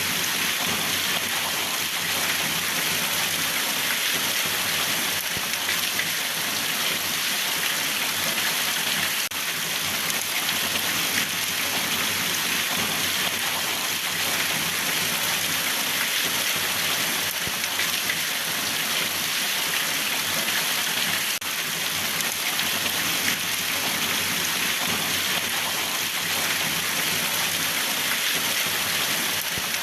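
Steady rain falling on a surface, an even hiss that keeps the same level.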